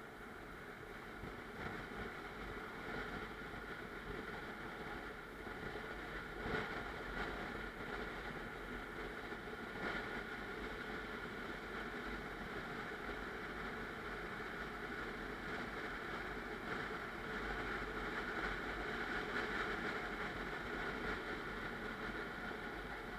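Car on the move: steady road and tyre noise with engine rumble, with a couple of brief knocks from the road about a third and halfway through.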